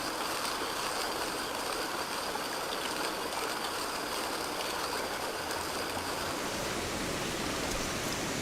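Steady rushing of water, even and unbroken, with a faint high steady tone above it.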